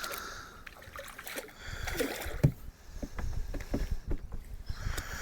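Scattered knocks and clicks of handling on a fishing boat, with an irregular low rumble; the loudest knock comes about two and a half seconds in.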